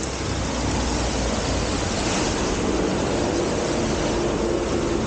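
Steady rush of wind and road noise on a moving Triumph Tiger motorcycle, with the engine's hum running low underneath.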